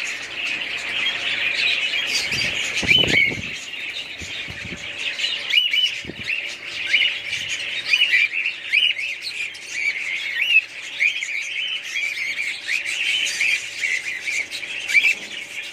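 Many budgerigars chirping and chattering together, a continuous stream of short, quick, overlapping calls, with a couple of dull low thuds about three and six seconds in.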